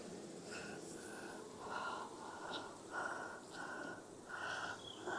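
Bee smoker's bellows being pumped: a run of short, faint puffs of air, about one every two-thirds of a second, each with a slight wheezing whistle.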